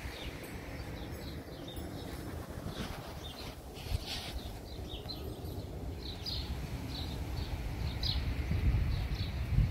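Small birds chirping, a string of short high calls, most of them in the second half, over a low rumble that grows louder toward the end.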